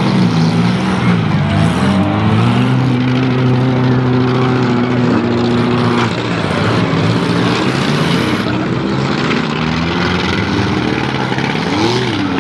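Several small four-cylinder demolition derby cars' engines revving hard, their pitch rising and falling as the cars push and ram one another.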